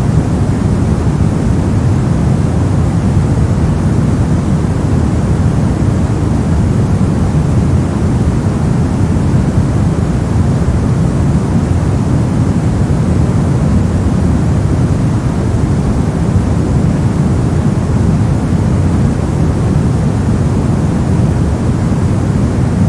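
Steady synthetic noise, a constant rush with its weight in the low end, unchanging throughout.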